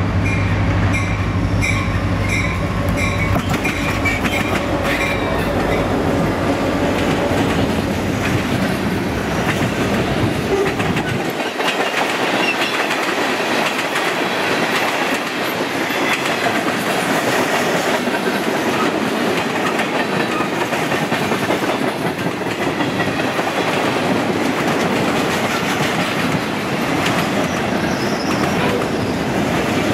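Diesel freight locomotive running past close by with a deep engine drone that fades away, while a grade-crossing bell rings about twice a second for the first few seconds. Then a long string of freight cars rolls by, their wheels clattering steadily over the rail joints.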